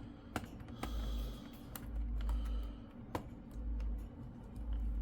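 Irregular plastic clicks and taps from a laptop keyboard being handled and pried at as it is worked loose, with dull low bumps from handling.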